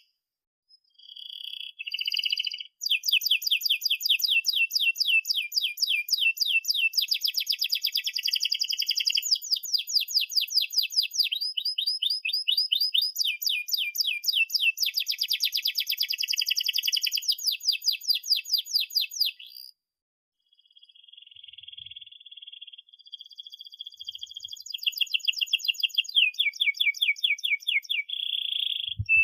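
Domestic canary singing a long song of fast rolling trills, runs of rapidly repeated high notes, broken by a short pause about two-thirds of the way through.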